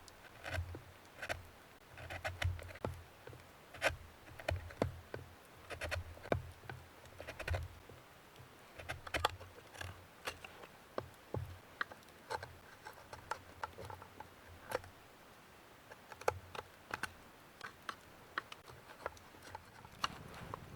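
A blade carving wood by hand, hollowing out the bowl of a wooden kuksa cup: short, irregular scraping cuts with little knocks, several a second in places, with brief pauses between runs.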